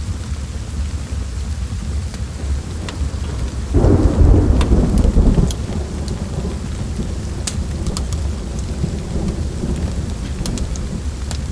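Steady rain with a rumble of thunder that swells about four seconds in and dies back over a second or two, with scattered sharp crackles throughout.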